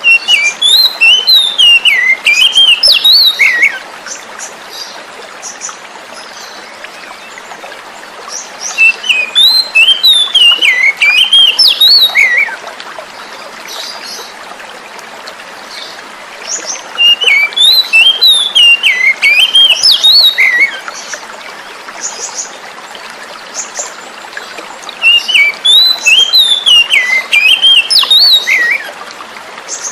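Oriental magpie-robin (kacer) song: the same loud warbling phrase of about three and a half seconds, repeated four times roughly every eight seconds, over a steady sound of flowing water.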